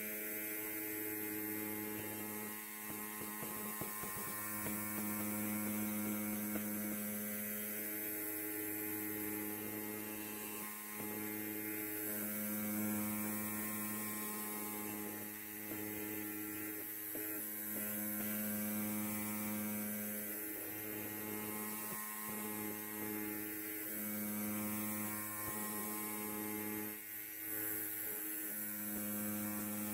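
Electric hair clipper buzzing steadily. The buzz swells and eases every second or two, with a few brief dips.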